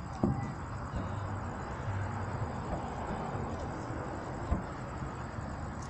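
Distant fireworks display: two sharp bangs of shells bursting, about four seconds apart, over a steady background hum.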